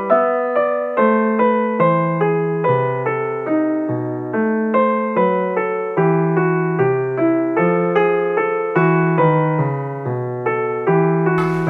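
Background piano music: a gentle melody of evenly paced notes, about two a second, over a bass line. Just before the end a short clatter of noise begins.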